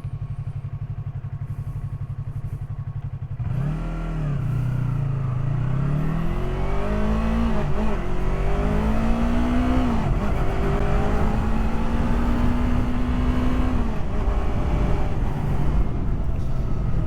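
Yamaha R3 motorcycle's parallel-twin engine idling with a steady low beat, then, about three and a half seconds in, pulling away: the pitch climbs and drops back at each upshift before holding steady at cruise, with wind noise building as speed rises.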